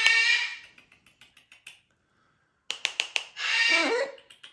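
Macaw making a run of quick sharp clicks, about seven a second, each run ending in a short raspy call. This happens twice, and the second call falls in pitch near the end.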